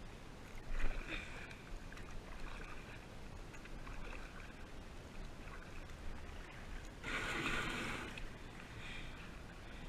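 Kayak paddle strokes pulling through the water, a splash about every second and a half, with a longer, louder splash about seven seconds in.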